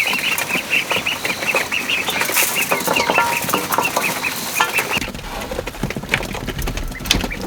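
Young poultry peeping in a fast, steady chatter for about the first five seconds, with scattered knocks and rustles. A low rumble comes in about five seconds in.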